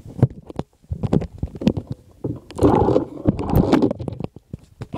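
Coolster 125 pit bike engine turned over twice by the kick starter, each stroke a short chuffing surge against the compression, with clicks and knocks from the kick lever before them.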